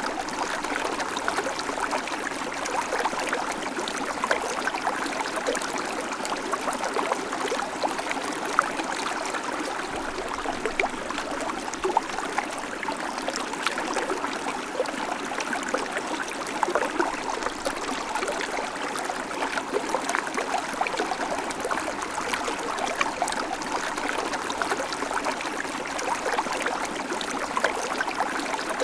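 Babbling creek: a steady rush of water over stones, with many small splashes and gurgles.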